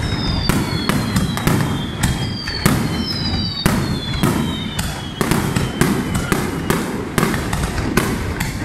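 Fireworks display: a rapid, continuous barrage of aerial shell bursts, several bangs a second. Several high whistles slide slowly down in pitch among the bangs.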